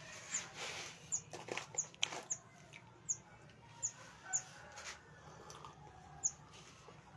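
Small aviary birds giving short, very high chirps, roughly one or two a second, mixed with scattered sharp clicks and faint lower calls.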